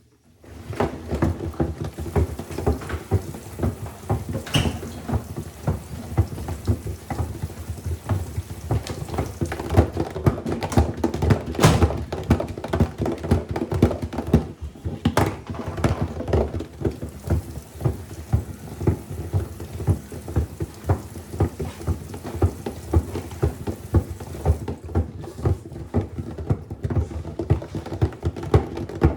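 LG WM6700HBA front-load washer drum tumbling a wet load with a calculator inside: water splashing and sloshing with rapid, irregular clattering and knocks as the calculator hits the drum. It starts suddenly and goes on steadily.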